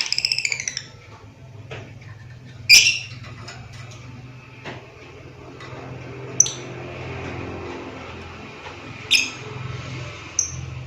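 Lovebird giving shrill, high calls: a quick burst of chatter at the start, then single sharp calls every two to three seconds. A low steady hum runs underneath.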